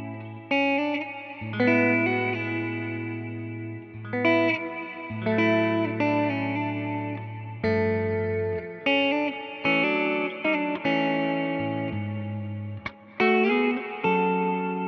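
Electric guitar played through a Line 6 modeler's Vox AC30 amp model and a cabinet impulse response: chords struck about every second or two, each left to ring and fade, with a few quick re-strikes between them. The tone is lightly driven.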